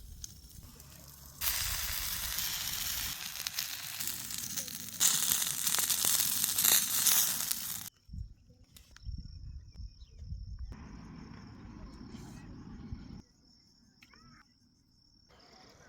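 Loud, even sizzling hiss with crackles, as of chicken frying in hot oil, which stops abruptly about halfway through. After it come quieter stretches with a steady high-pitched tone and low rumbling, broken by abrupt cuts.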